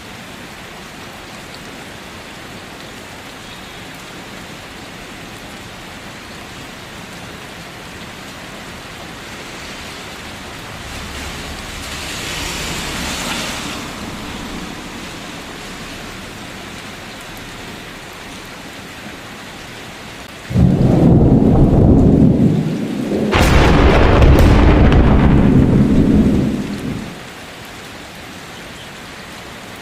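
Steady rain falling, with a softer rumble of thunder swelling about a third of the way in, then a loud, sudden thunderclap about two-thirds in that rolls on in two surges for several seconds before the rain is left alone again.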